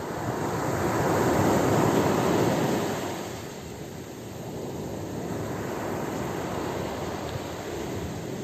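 Ocean waves breaking on the shore: one wave swells to a loud rush about two seconds in and fades, followed by a steady lower wash of surf.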